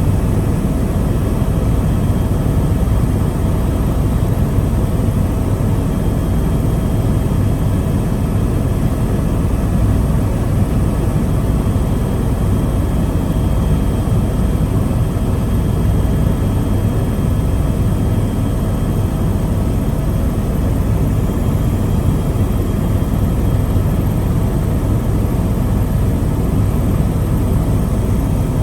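Helicopter in flight: a steady, loud low drone of rotor and engine, with faint steady whining tones above it.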